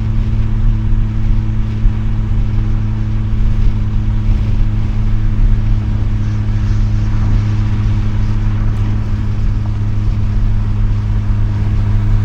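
Mazda RX-7's rotary engine drones through an RE Amemiya Dolphin Tail 90 Curl exhaust at a steady engine speed, heard from inside the cabin with the windows open.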